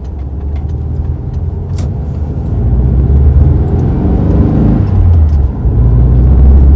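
Air-cooled VW Beetle flat-four engine heard from inside the cabin while driving, a loud low drone that builds from about two and a half seconds in. Its pitch climbs under acceleration, then drops back around five seconds in. The engine is on fresh 20W50 oil, which the owner finds runs much quieter.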